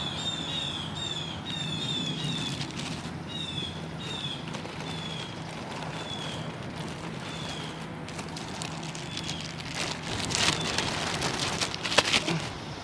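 A small bird chirping over and over in short, high, falling chirps, quick at first and then more spaced out. About ten seconds in there is a short rustling burst, and a sharp knock comes near the end.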